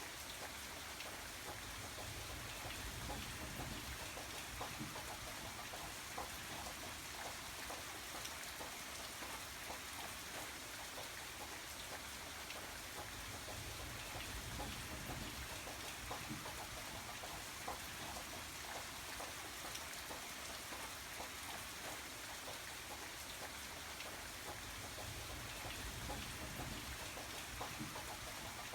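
Steady rain falling, an even wash of many drops, with a low rumble that swells up three times.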